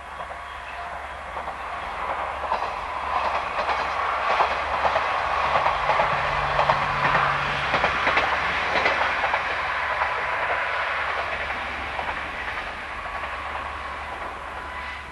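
Two-car KiHa 40-series diesel railcar train passing, its wheels clicking over the rail joints. It grows to its loudest about halfway through and then fades as it moves away.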